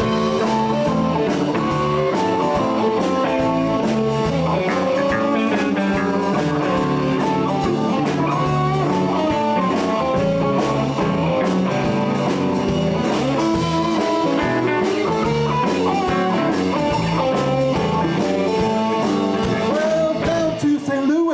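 Live blues band playing an instrumental break with a guitar leading over the steady rhythm section.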